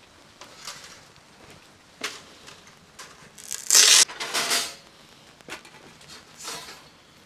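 Rustling and crinkling of handled material in several short bursts, the loudest and longest about halfway through.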